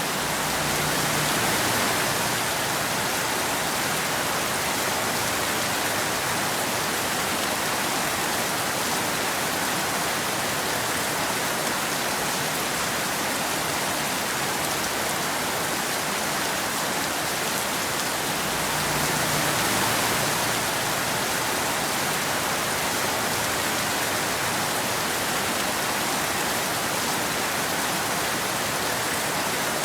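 Steady rain falling, an even hiss of drops with no thunder. It swells slightly louder twice, near the start and about two-thirds of the way through.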